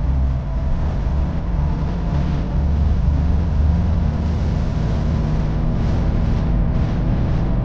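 Heavy-haul semi-truck's diesel engine running steadily with road noise while the truck is under way, a low, even rumble.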